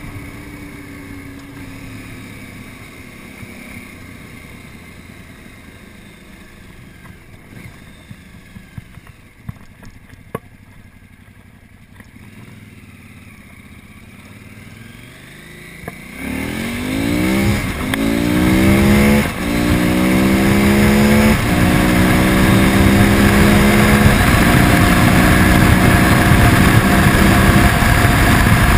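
KTM 950 Super Enduro's 950cc V-twin engine running at low revs, then a little over halfway through it opens up under hard acceleration: the engine pitch climbs and drops back three times as it shifts up through the gears, then holds a steady note at speed. Wind noise grows with the speed.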